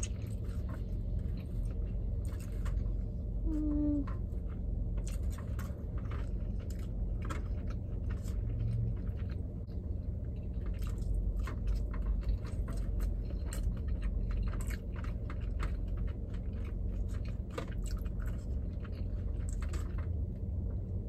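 Close-up wet chewing of soft eel sushi and rice, with many small mouth clicks and smacks, over a steady low hum.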